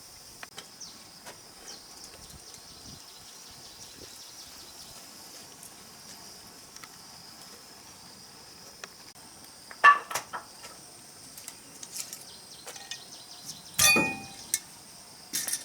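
A steady, high-pitched insect chorus, with scattered sharp knocks and clinks on top of it. The two loudest knocks come about ten and fourteen seconds in, and the second rings briefly.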